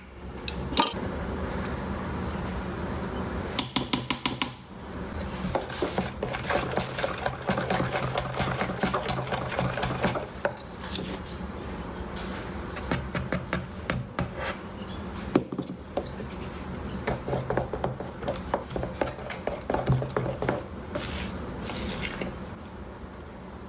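Kitchen utensils clinking and scraping against a bowl or dish: a quick run of even taps about four seconds in, then steady irregular clinking through most of the rest.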